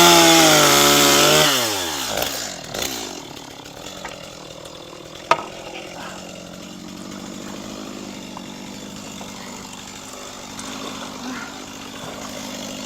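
Two-stroke chainsaw revved hard for about a second and a half, then dropping back to a steady idle. A single sharp knock about five seconds in.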